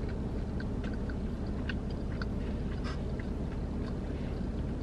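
Close-up chewing of a fried falafel bite: scattered small crunches and wet mouth clicks over a steady low hum.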